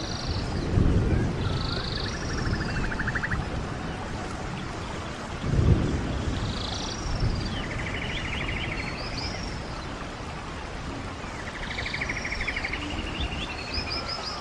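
A stream running steadily while a songbird repeats a short phrase about three times: high arched notes, then a fast buzzy trill. Low rumbles swell about a second in and again near six seconds.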